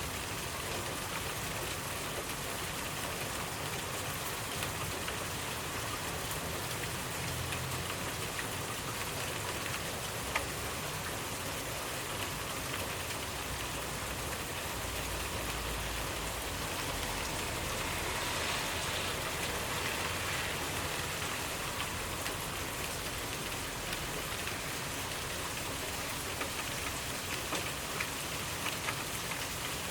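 Steady rainfall, drops pattering on a surface with scattered individual drip ticks; the rain swells briefly a little past halfway.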